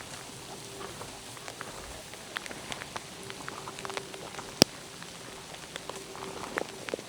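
Rain falling in a forest: a steady hiss with scattered, irregular drop ticks close by, and one sharper, louder drop about two-thirds of the way through.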